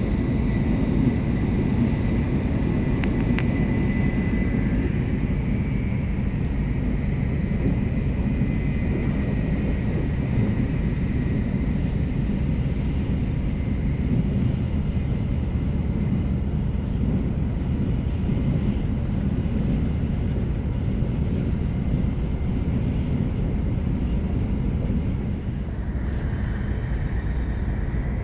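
Steady low rumble of a Tokaido Shinkansen Hikari train running at speed, heard from inside the passenger car. A faint high whine comes in during the first third and again near the end.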